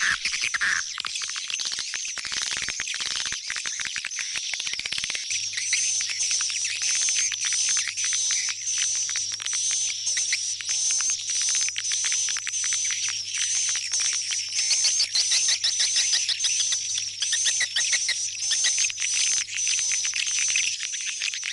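Swiftlet calls: a dense, continuous chatter of rapid high chirps and twitters, pulsing in an even pattern about twice a second, as in a swiftlet-house lure recording.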